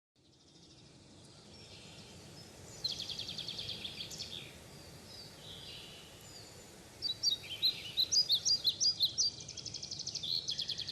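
Songbirds singing over a faint steady hiss, fading in from silence: a rapid trill about three seconds in, then a run of sharp chirps at about four a second, ending in another fast trill.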